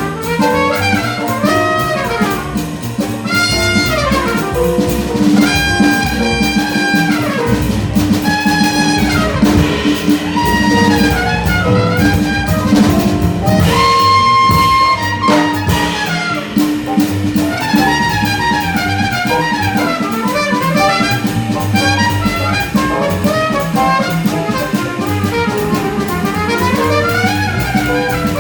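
Small jazz band playing live: a horn carries a fast melodic line of quick runs and held notes over piano, bass and drums.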